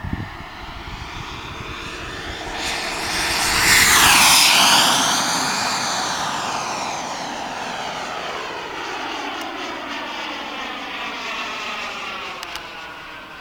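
Model jet's Jet-Italia Kayman 190 turbine flying past: its whine swells to its loudest about four seconds in, falls in pitch as it goes by, and then slowly fades.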